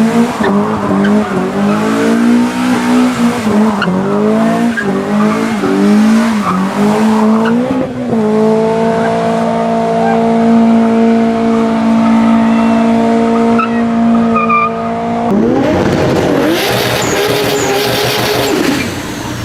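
A performance car's engine revving up and down with tyre squeal, as when drifting, then holding a steady high note for several seconds. About fifteen seconds in it changes abruptly to another car revving.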